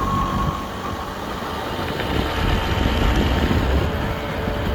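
Motorbike engine running steadily while riding along a road, with wind and road noise on the microphone.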